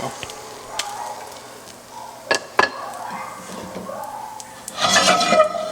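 Cooking utensils clinking against a frying pan and plate as fried fish fillets are served: two sharp clicks a couple of seconds in, then a louder clatter with a brief ring near the end.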